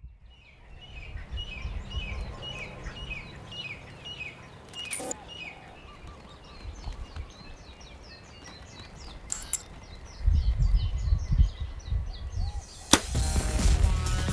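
Outdoor nature ambience: small birds chirping in quick repeated notes over a low rumbling noise that grows louder about ten seconds in. A sharp crack near the end, as music begins.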